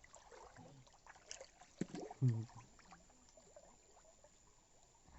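Close-up eating sounds of tutut (freshwater field snails): wet slurping and sucking of the meat from the shells, with small shell clicks. A brief low hum-like sound, the loudest moment, comes about two seconds in.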